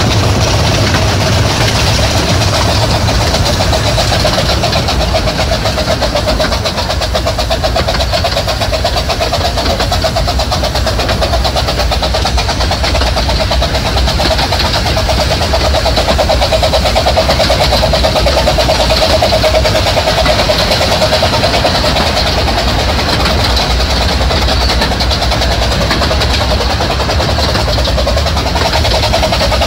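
15-inch-gauge miniature railway train running along the track: a loud, steady rattle and roar of carriage wheels on rail and running gear.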